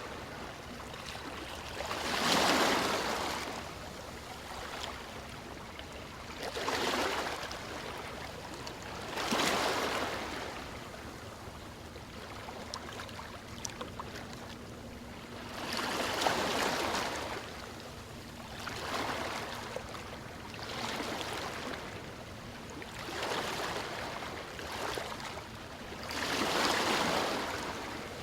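Ocean waves washing in one after another, each surge swelling and fading over a second or two, about eight in all, the loudest about two seconds in.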